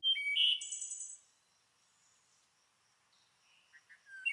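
Birdsong: a burst of bright, high chirps in the first second, then a quiet stretch, then more chirps and a trill near the end.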